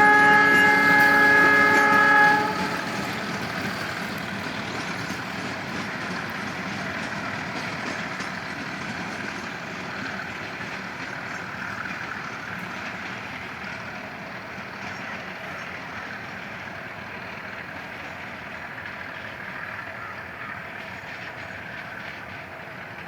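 Metre-gauge train sounding its horn, a chord of several tones held until it cuts off about two seconds in. It is followed by the train's steady running noise on the rails, which slowly fades away.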